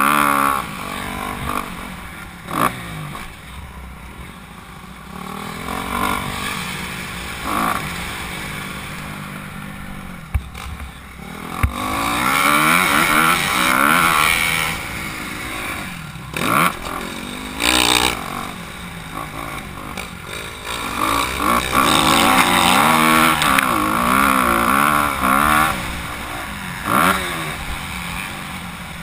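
Honda CRF250R four-stroke single-cylinder motocross engine revving up and falling back repeatedly, with short sharp throttle blips and rising pitch as it pulls. It is loudest in two long stretches, about twelve seconds in and again from about twenty-one seconds in.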